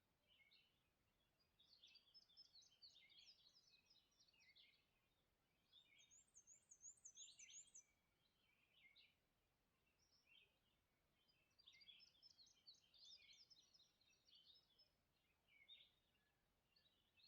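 Faint songbirds singing: two long, jumbled phrases of rapid chirps about a second or two in and again about twelve seconds in, and a very high, fast trill between them, with short calls scattered throughout.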